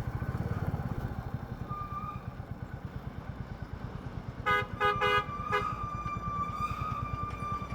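Royal Enfield Classic 350's single-cylinder engine running with a steady low thump under way. About halfway through a vehicle horn honks four short times, and a thinner steady horn-like tone hangs on afterwards.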